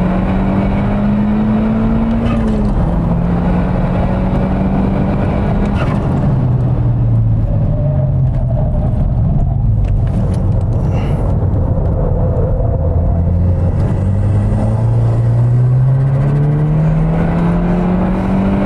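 Mk2 SEAT Leon Cupra's turbocharged four-cylinder engine heard on board during a track lap, over steady tyre and wind noise. The engine note climbs, drops sharply about three seconds in as it shifts, falls again around six seconds in and stays low through a corner, then climbs steadily under power toward the end.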